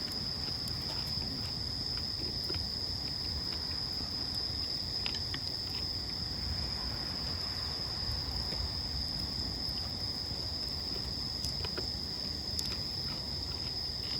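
Insects, crickets or similar, chirring in one steady, unbroken high-pitched drone, over a low rumble, with a few faint clicks.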